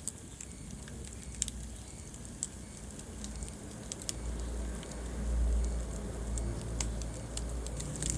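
Wood fire burning in a fireplace: irregular sharp crackles and pops over a low rumble of the flames, the rumble swelling about halfway through.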